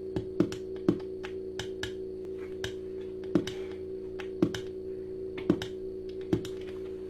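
Modular synthesizer playing a steady low drone of several held tones under sparse, irregular electronic percussion: thin clicks and ticks, with a louder hit every second or so.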